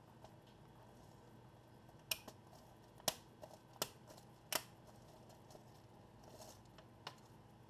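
About five sharp, irregular plastic clicks and taps from the laptop's parts being handled while the keyboard is connected and fitted during reassembly.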